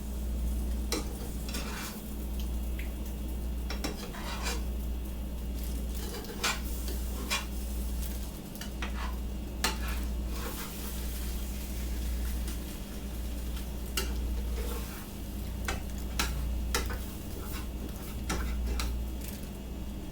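A utensil stirring and scraping an egg-and-fish mixture being stir-fried in a frying pan, with irregular clicks and taps against the pan over faint sizzling. A steady low hum runs underneath.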